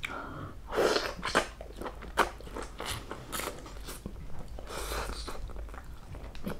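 Close-miked chewing of crispy pata, a deep-fried pork leg, with several irregular sharp crunches as the crisp pieces break between the teeth.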